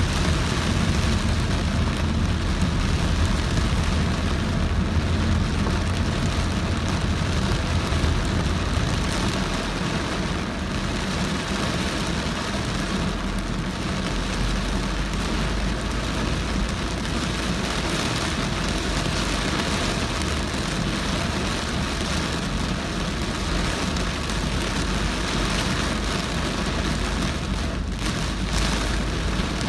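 Very heavy rain on a moving car, a dense steady hiss over the car's low engine and road rumble. The low rumble shifts to a deeper pitch between about ten and fourteen seconds in.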